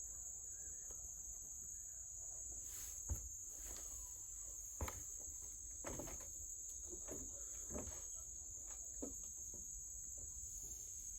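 Insects droning steadily at a single high pitch, with a few soft thumps and knocks scattered through it, the sharpest about three and five seconds in.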